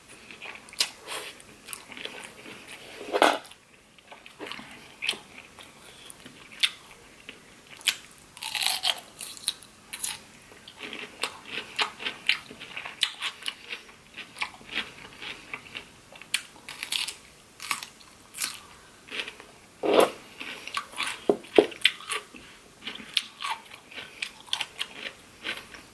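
A person chewing and biting food close to the microphone, with many irregular wet mouth clicks and smacks.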